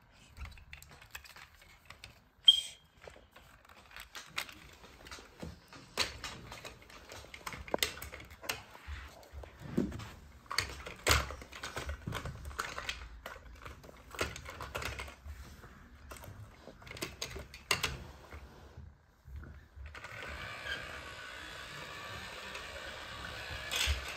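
Scattered clicks and light knocks of plastic Lego pieces being handled. Near the end, faint music comes in and keeps going.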